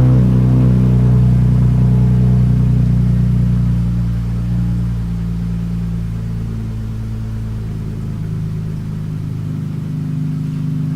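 Exhaust of a 2017 Dodge Charger SXT AWD's 3.6-litre V6, fitted with an electric cutout and the mufflers and resonators deleted, running at a steady engine speed. A deep, even drone that slowly gets quieter.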